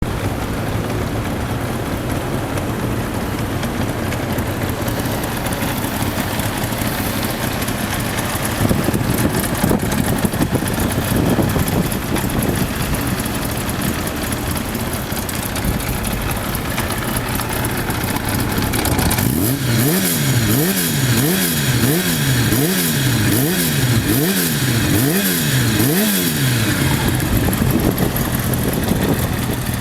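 Kawasaki Zephyr 750's air-cooled inline-four running through a Yoshimura aftermarket exhaust: a steady idle, then about seven quick throttle blips around a second apart, each rising and falling, before it settles back to idle near the end.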